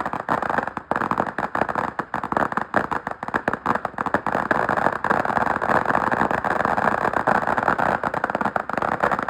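Fireworks going off in a dense, continuous run of rapid pops and crackles, many a second, without a break.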